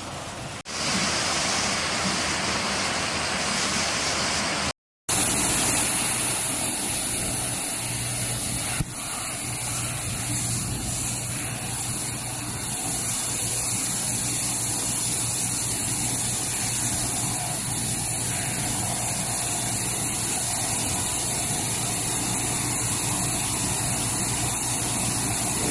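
High-pressure water jets of a construction-site truck wash spraying steadily against a truck, with a vehicle engine running underneath. The sound drops out for a moment about five seconds in.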